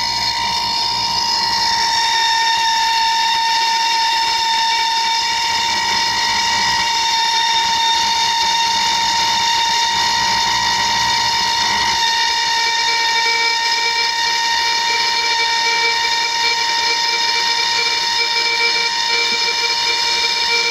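Gas blowtorch flame burning steadily with a whistling hiss while soldering a copper pipe joint.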